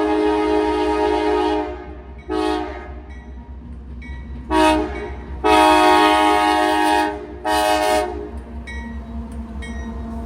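Nathan AirChime hybrid K5LA air horn on CSX CM44AC locomotive 7037 blowing a multi-note chord: a long blast that ends under two seconds in, then short, short, long and short blasts. The chord sounds fouled, meaning a horn bell is not sounding properly. A low steady locomotive engine rumble runs underneath.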